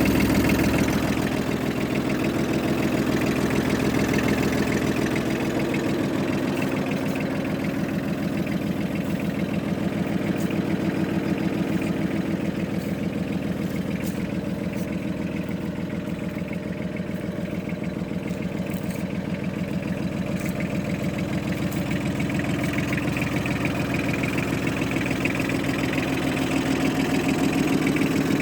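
Yanmar AF15 compact tractor's diesel engine idling steadily with an even, fast pulse, a little quieter through the middle and louder again near the end.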